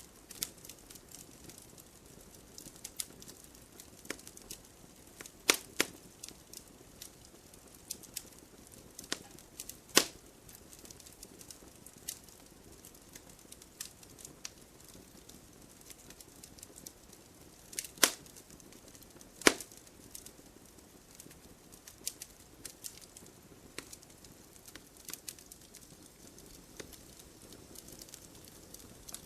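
Wood fire in a fireplace crackling: irregular small crackles with a few sharp louder pops, the strongest about five and a half, six, ten, eighteen and nineteen and a half seconds in, over a faint steady hiss.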